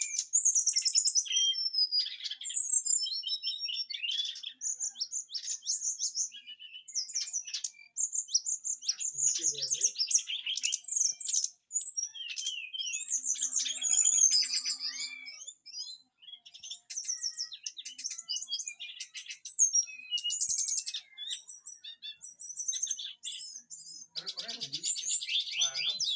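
Songbird singing a rapid, varied song of high chirps, trills and sweeping notes, delivered in bursts with short pauses, the kind of 'rough shot' filled-in song a trained songbird is tested for.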